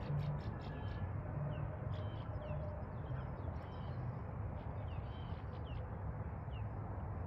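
Wild birds calling: many short, quick chirps that drop in pitch, scattered throughout, over a steady low background rumble.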